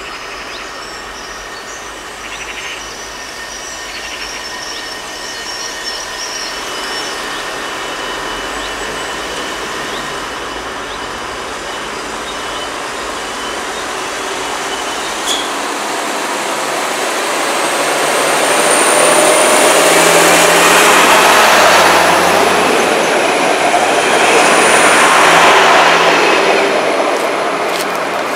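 Bombardier Talent BR 643 diesel railcar approaching along the track, growing steadily louder as it draws close. A high steady squeal joins in about two-thirds of the way through, while the train is at its loudest.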